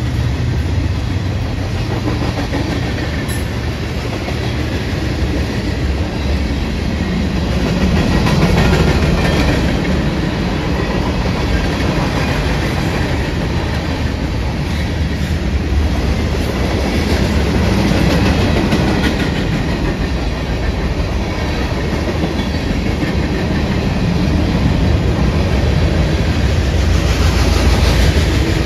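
A BNSF mixed freight train's cars (tank cars, hoppers, boxcars) rolling past close by: a steady, loud rumble of steel wheels on rail, with constant clacks as the wheels cross the rail joints.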